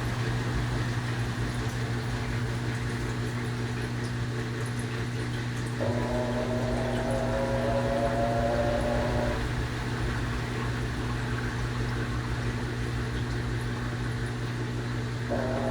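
Panasonic 12 kg washing machine running with a steady motor hum. A whining tone comes in about six seconds in, lasts about three and a half seconds with its pitch sliding slightly down, and starts again near the end.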